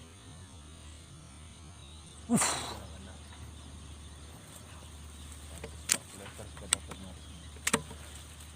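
A single sharp report from a PCP air rifle about two and a half seconds in, dying away quickly. A few faint, sharp clicks follow.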